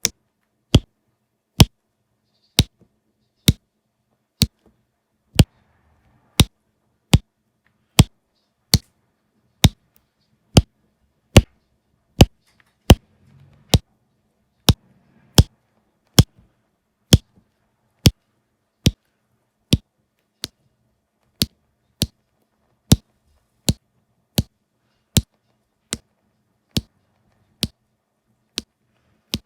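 Diamond painting drills being tapped onto the sticky canvas one at a time. Each placement gives a sharp click, in a very even rhythm of a little more than one a second.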